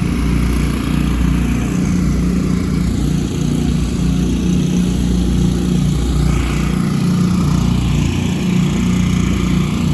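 A small engine running steadily, its drone loud throughout.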